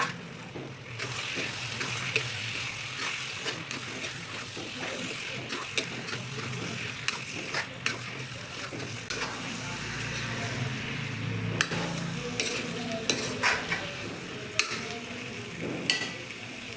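Chicken masala frying and sizzling in a pan while being stirred, with a utensil repeatedly clicking and scraping against the pan.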